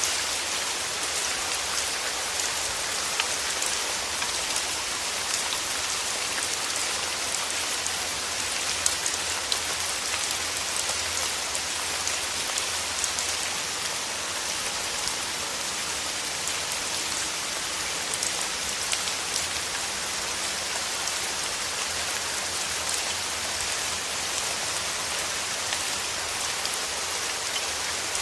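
Steady rainfall, a dense even hiss with many small drop patters on a surface.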